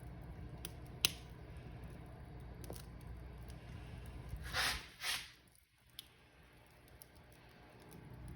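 Wood fire in a fireplace crackling over a steady low rumble, with a sharp pop about a second in and two short hissing bursts around the middle.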